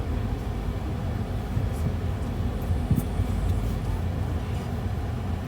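Steady low rumble of a vehicle in motion, with a couple of faint clicks about halfway through.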